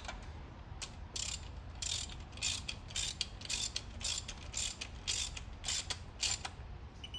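Ratchet wrench clicking in short, even back-and-forth strokes, about two a second, as a lower intake plenum manifold bolt is run down on a 3.8L V6 engine during the tightening sequence.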